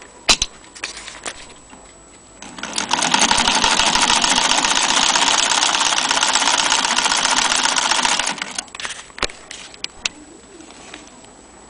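Antique Jones sewing machine running at a brisk, even pace for about six seconds, a fast rattling clatter of its mechanism. A few separate sharp clicks come before and after the run.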